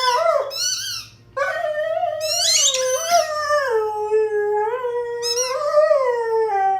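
Dog howling: one long wavering howl that ends about a second in, then after a short breath a second, longer howl that wavers up and down in pitch.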